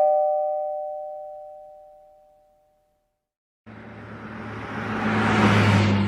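Two-tone "ding-dong" doorbell chime, its two notes ringing and fading away over about three seconds. After a short silence, a car passes by, growing louder and then fading.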